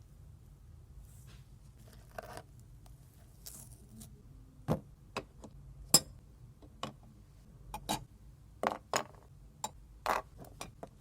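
Irregular light clicks and taps of small hard parts being handled, with a couple of soft scrapes early on. The clicks come closer together later.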